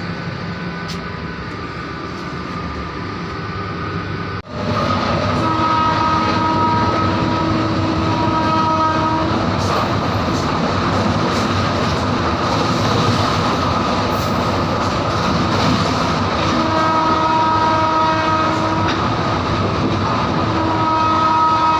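Electric locomotive running, a steady rumble and rattle of the moving train. From about five seconds in, a multi-note horn sounds in long held blasts, twice more later.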